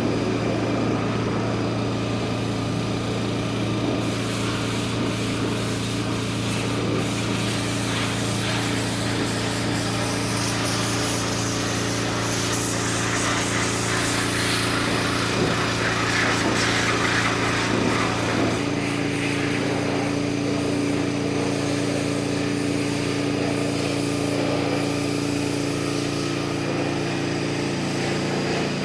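Nissan N41 mini digger's engine running steadily, its note shifting to a different pitch about two-thirds of the way through.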